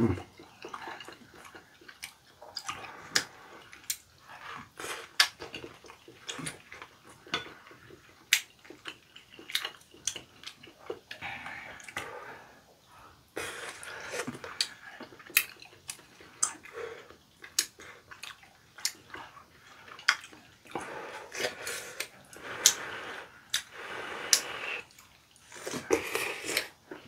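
Two people eating chewy tteokbokki (Korean rice cakes in spicy sauce): close wet chewing and mouth sounds with many short sharp clicks and smacks.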